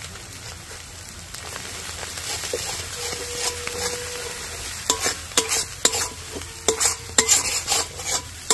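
Ground spice paste sizzling in hot oil in a metal kadai while a spatula stirs it. From about five seconds in, the spatula scrapes sharply and repeatedly against the pan. This is the masala being fried down (kosha) before water goes in.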